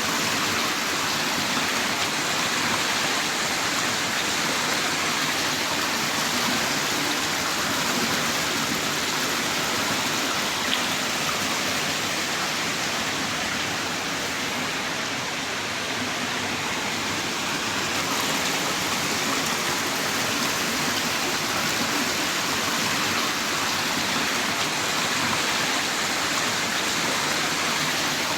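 Heavy rain downpour: a steady, dense hiss of falling rain with no distinct drops standing out.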